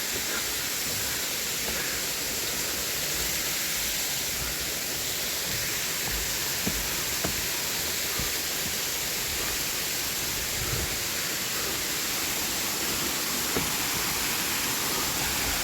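Water cascading down a tier of Erawan Falls, a steady, even rush of falling water.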